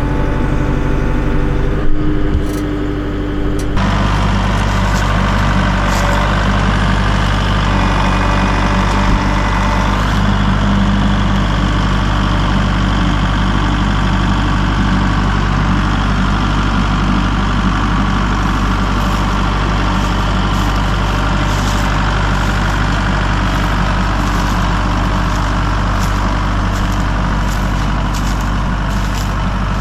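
Heavy equipment's engine running steadily at close range, its sound growing fuller and rougher about four seconds in and holding there.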